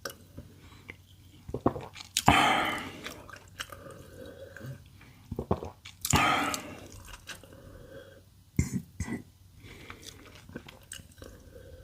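Close-miked chewing and wet mouth sounds of a person eating, with many small clicks and two louder noisy bursts about two and six seconds in.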